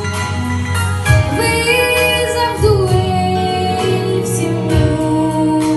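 Female voice singing a pop ballad over backing music with bass and a regular beat, with long held notes that glide between pitches.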